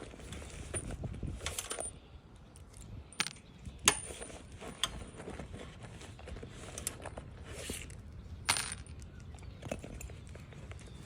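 Scattered light scraping and rustling with a few sharp metallic clicks, one clearly louder, from hand work with nails and tools on asphalt roof shingles.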